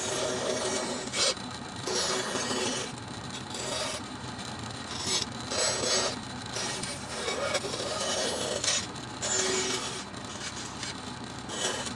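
Hand tool rasping or filing wood in repeated strokes, roughly one a second, each a short scratchy burst.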